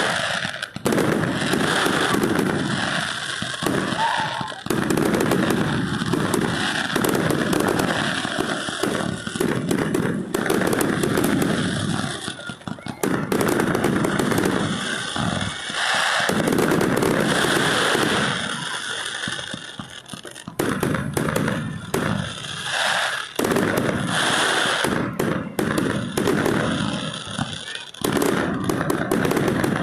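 Fireworks going off: dense, repeated bangs and crackling, with voices among them.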